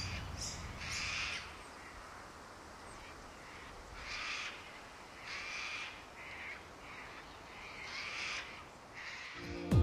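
Sulphur-crested cockatoos giving harsh, raspy screeches, about seven separate calls spaced irregularly a second or so apart.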